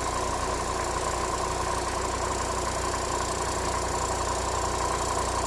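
Forklift engine running steadily at idle, with a constant whine held over the hum.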